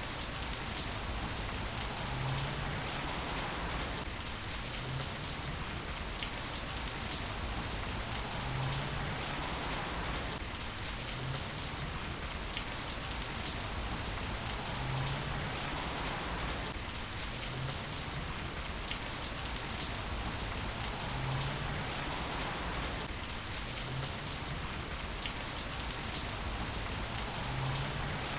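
Heavy rain falling steadily, with scattered sharp ticks of drops striking a surface; the same pattern recurs about every six seconds.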